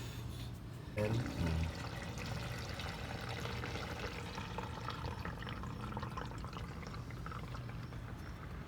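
Used engine oil pouring in a steady stream out of a car's oil-pan drain hole into a drain pan. A brief voice is heard about a second in.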